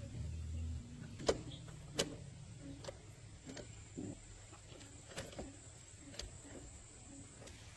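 Scattered light clicks and knocks, about eight of them at uneven spacing, over a faint low hum that fades after the first second.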